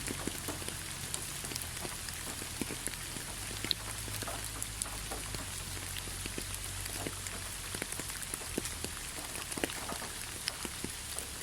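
Steady rain with individual drops pattering and ticking on a surface.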